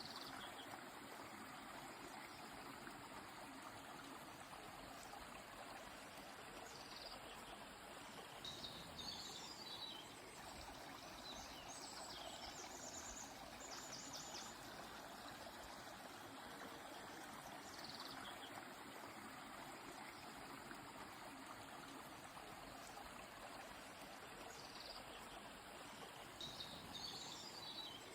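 Faint, steady rush of a flowing river, with birds calling in short, high chirps and trills several times over it.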